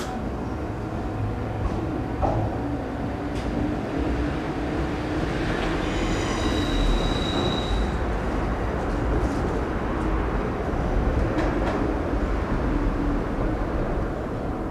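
Iyotetsu electric train running in the station with a steady low rumble, and a high wheel squeal for a couple of seconds around the middle.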